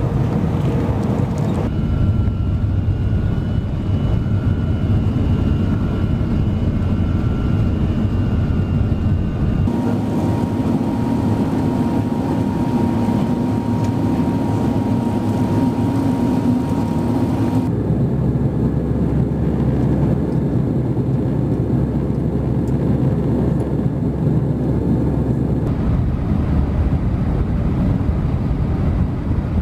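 Jet airliner engine and airflow noise heard inside the cabin, in a run of short clips from different flights; the steady rush changes character abruptly about every eight seconds, some stretches carrying a faint steady whine.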